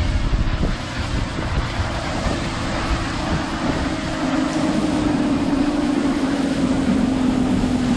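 Boat's Yamaha 225 V6 outboard motor running on the water, with wind buffeting the microphone. About two seconds in a steady engine tone comes up and sags slightly lower in pitch toward the end.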